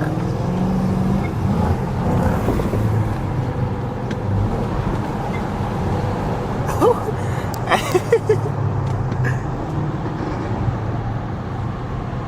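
Chrysler 300's Hemi V8 with the mufflers deleted, driving under way: a steady low exhaust drone that steps up and down in pitch as it pulls. A few short, high chirps come about two-thirds of the way through.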